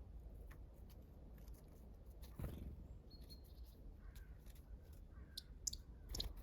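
Faint wild songbirds giving a few short high calls, with a couple of sharp knocks, one about two and a half seconds in and one near the end, over a low background rumble.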